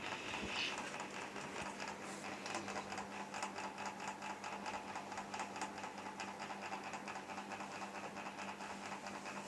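Camel mini ceiling fan running steadily: a low motor hum with a fast, fine ticking rattle over it.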